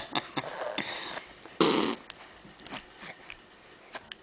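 Baby making noisy breathy sounds with no voice pitch. A loud blowing rush comes about one and a half seconds in, with small clicks and breaths around it.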